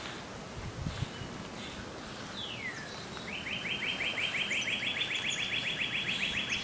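A songbird singing: one falling whistle, then a rapid trill of repeated notes, about eight a second, held for over three seconds.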